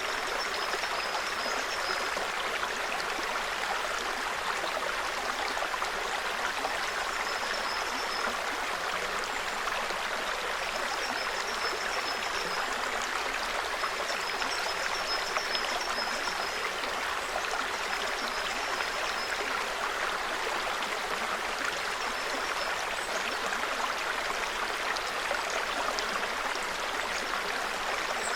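Small mountain forest stream running steadily, an even babbling rush of water. A bird's short, high, thin call phrase recurs every few seconds over it.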